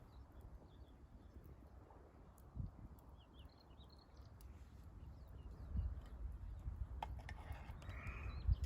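Wood bonfire crackling with scattered small pops, under a low rumble of wind on the microphone that grows stronger in the second half.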